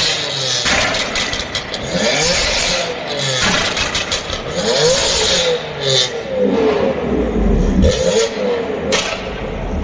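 Sports car engines being revved in repeated short blips, the pitch sweeping up and falling back each time, with a few sharp cracks.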